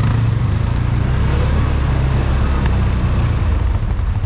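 ATV engine running steadily, with one sharp click a little past halfway.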